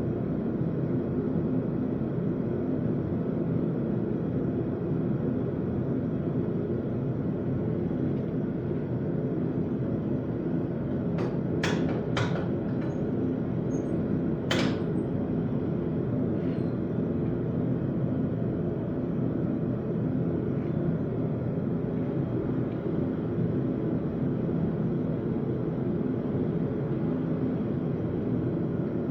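Steady roar of a running forge, with a few sharp ringing metal clanks near the middle: three in quick succession, then one more a couple of seconds later.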